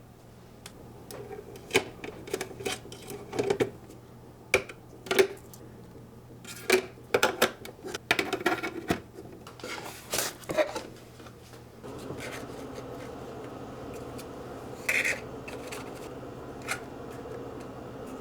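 Sharp clicks and light knocks of small objects being handled and set down, closely spaced for about the first twelve seconds. After that a steady soft hiss sets in, with two more isolated clicks.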